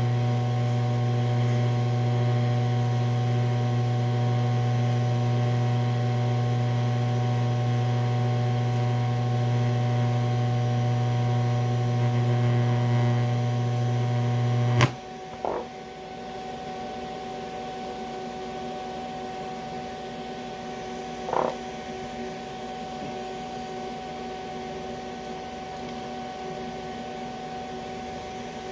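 TIG welder running an arc on aluminum at direct current electrode positive, a loud steady hum that cuts off with a click about halfway through. A quieter steady hum from the idling welding machine carries on, with one short blip near the end.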